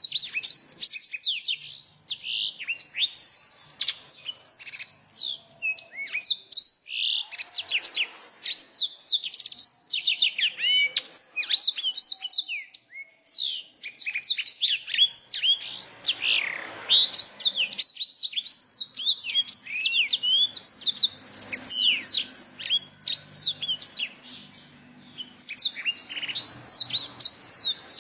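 A small songbird singing a fast, continuous warbling song of high chirps and quick slurred whistles.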